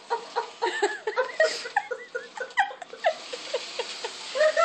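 A dog whining and yipping over and over in short, rising-and-falling cries, several a second, worked up with excitement.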